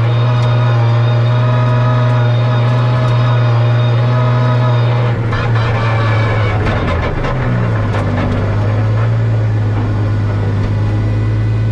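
A drift car's 2JZ inline-six engine running hard at a steady pitch, with a run of sharp crackles and a brief dip in pitch about five to seven seconds in before it settles back to a steady note.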